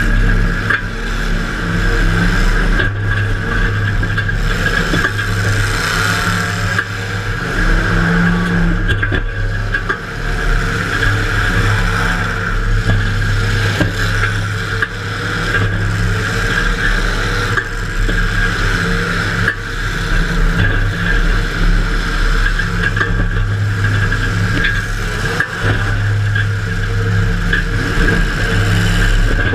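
Demolition derby car's engine running loud and steady, heard from inside the car, with occasional knocks and scraping.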